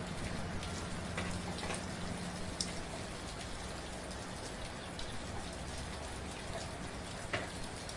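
Steady soft rain falling, an even patter with scattered individual drops ticking on a surface.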